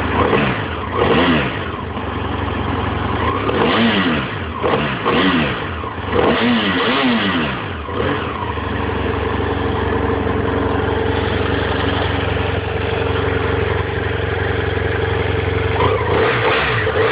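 BMW F 800 ST motorcycle's parallel-twin engine revved in several quick blips, each rising and falling in pitch. After about eight seconds it settles into a steady idle.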